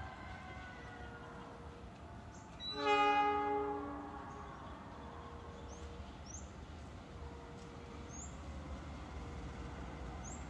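Railway locomotive horn sounding one blast about a second long, then fading, over a faint steady rumble.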